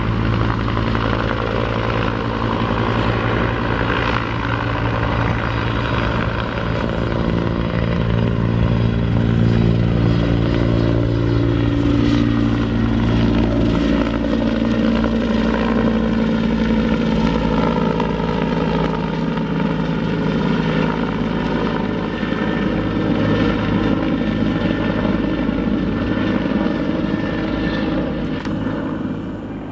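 Helicopter running, with its turbine and rotor making a steady, loud drone. The engine's tones shift in pitch partway through.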